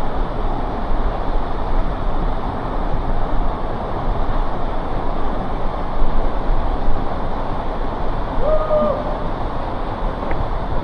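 Waterfall pouring into a plunge pool: a loud, steady rush of falling water. A short, pitched call rises above it once, about eight seconds in.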